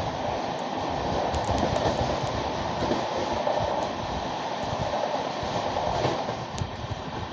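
Passenger train running along the track: a steady rumble and rail noise with a few faint clicks.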